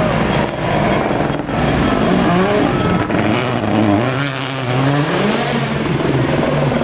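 Rally car engine revving hard, its pitch climbing and dropping several times through gear changes, with a few short sharp cracks.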